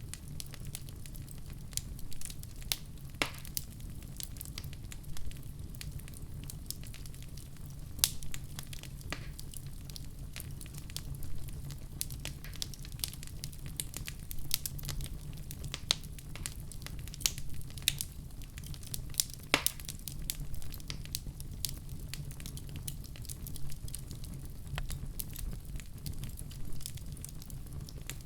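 Wood fire in a fireplace crackling, with irregular sharp pops over a steady low rumble of the flames; two louder pops stand out, about eight seconds in and again near twenty seconds.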